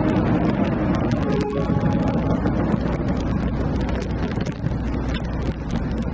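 Aerial fireworks crackling: a dense, irregular rattle of small sharp pops over a continuous low rumble, easing slightly near the end.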